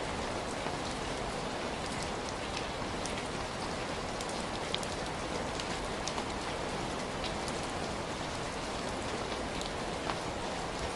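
Heavy rain falling steadily, an even hiss of rainfall with many close individual drops ticking on a surface.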